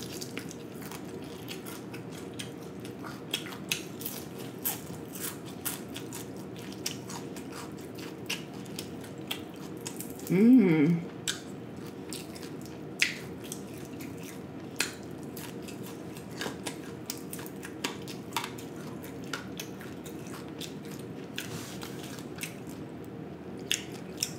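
Close-miked eating sounds of fried whole snapper: many small wet mouth clicks and smacks as it is chewed and picked off the bone with the fingers, over a faint steady hum. A short hum of the voice comes about ten seconds in.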